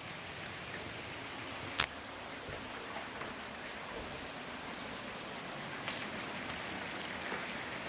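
Heavy rain falling steadily, an even hiss of drops hitting the ground, with a sharp tap about two seconds in and another about six seconds in.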